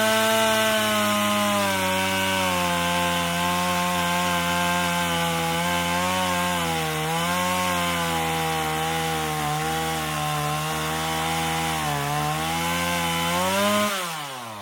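Two-stroke chainsaw at full throttle cutting into a tree, its pitch sagging a little now and then as the chain bites, then dropping away as the throttle is released near the end.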